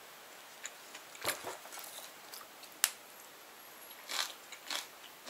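Small eating sounds: a spoon or chopsticks clicking sharply against a dish a few times, the sharpest about three seconds in, with soft chewing sounds near the end.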